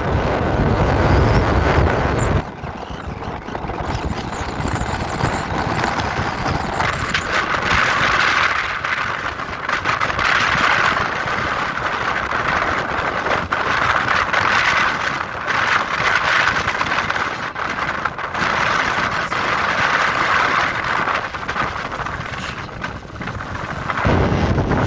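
Strong wind buffeting the microphone: a heavy low rumble for the first couple of seconds and again near the end, with a gusting, rushing hiss in between.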